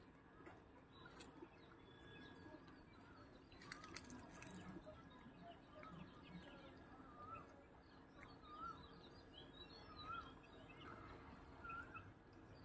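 Faint outdoor quiet with distant small birds chirping: short, repeated wavy notes scattered throughout. There is a brief scratchy noise about four seconds in.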